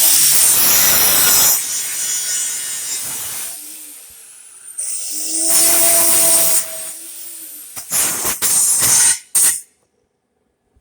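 Handheld power tool cutting metal in two long runs, its motor pitch rising as it spins up and falling as it winds down, then several short bursts near the end.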